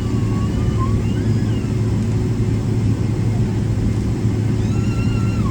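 Steady low rumble and hum inside the cabin of a Boeing 777-300ER as it taxis, its GE90 engines at taxi idle. Faint voices come in near the end.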